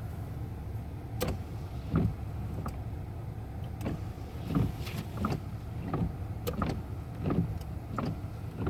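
1998 Toyota Camry idling, heard from inside the cabin: a steady low rumble with a string of short knocks and clicks about once a second.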